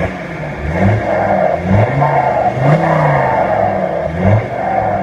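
Alfa Romeo Brera diesel engine with its particulate filter removed and an open, free-flowing exhaust, revved in a run of short blips that rise and fall in pitch, about two a second.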